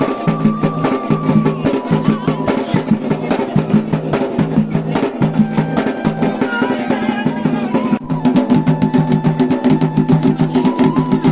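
Folk drums, dhol and damau, beating a fast steady rhythm for a mandan dance, with a held, bending melody line over them. The drumming drops for an instant about eight seconds in, then comes back louder.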